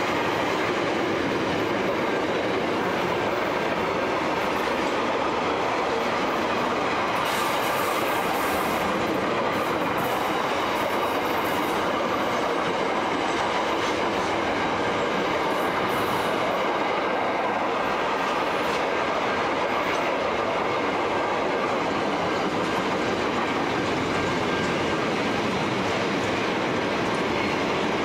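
Freight wagons (boxcars and louvre vans) rolling past at steady speed, a continuous noise of steel wheels on rail. A spell of high-pitched wheel noise comes and goes about a third of the way in.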